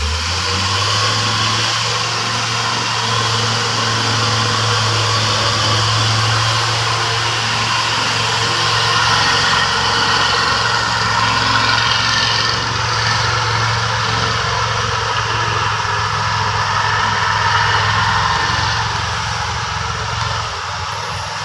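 Logging truck's heavy diesel engine running steadily, a constant low drone with mechanical noise over it, easing slightly near the end.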